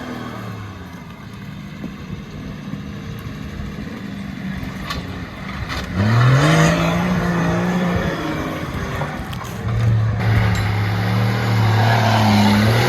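4.2-litre turbo-diesel Nissan GQ Patrol engine running, its revs climbing sharply about six seconds in and held high, with a louder steady note near the end and a few sharp clicks or knocks.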